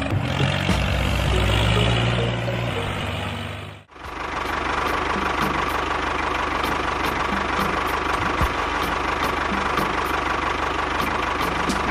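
A small engine running steadily; about four seconds in it cuts off sharply and a different steady machine sound with faint regular ticking takes over.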